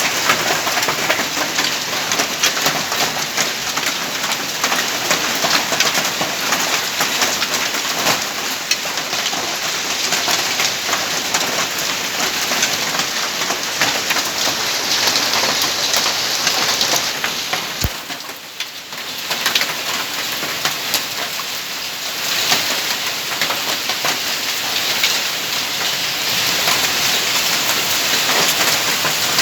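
Hail and heavy rain pelting down, a dense patter of hailstones striking hard surfaces. It eases briefly just after a single sharp knock about two-thirds of the way through.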